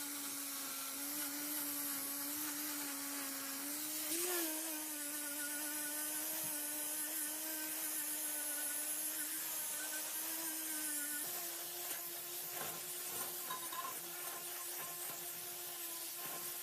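A power tool's motor running at a steady speed, with a hiss above it as it works on material. There is a brief wobble in pitch about four seconds in, and the pitch steps up slightly about eleven seconds in.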